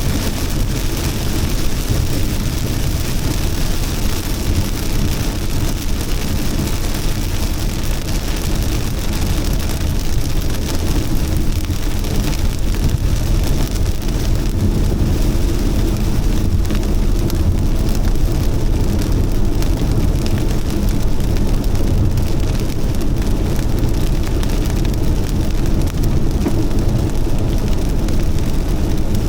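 Heavy rain pouring steadily, with a strong low rumble under the hiss of the drops.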